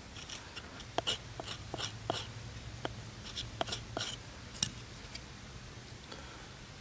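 A run of sharp, irregular clicks and snaps, about a dozen of them, starting about a second in and thinning out after about five seconds, over a low steady hum.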